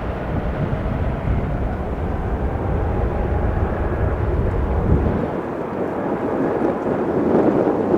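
Jet airliner engine noise from an Airbus A321neo with Pratt & Whitney PW1100G geared turbofans: a steady, broad roar. Heavy low rumble, likely wind on the microphone, runs under it and drops away about five seconds in, while the roar grows louder towards the end.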